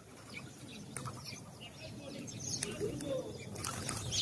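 House sparrows chirping in quick, repeated short notes, with a few sharp flutter-like clicks and a lower call about three seconds in.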